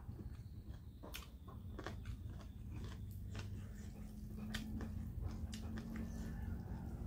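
Close-up eating sounds: chewing with wet mouth clicks and smacks. Fingers knead and mix rice on a steel plate.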